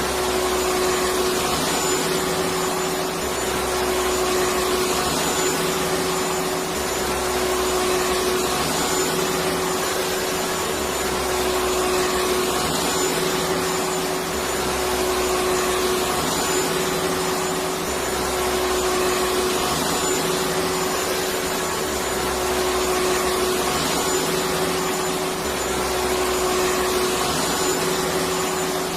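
Electric vacuum cleaner running steadily: a continuous whooshing noise with a steady humming tone, and a low rumble that swells and fades about every three and a half seconds.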